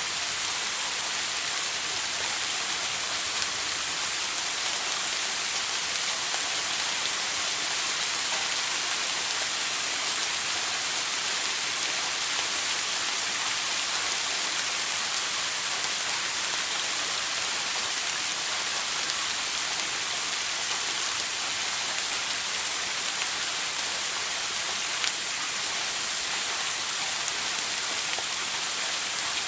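Shower water spraying steadily, an even hiss of falling water that does not change.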